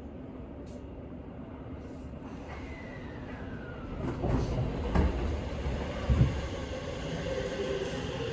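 Seibu 6000 series electric train running, heard from inside the car: a steady rumble of wheels on rail that grows louder about halfway through, with two sharp knocks of the wheels over rail joints. A steady whining tone comes in near the end.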